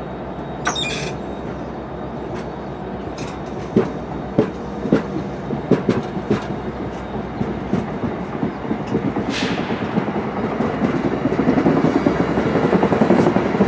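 Train rolling past with a steady rumble, its wheels clicking over rail joints in a run of sharp clicks. It grows louder near the end.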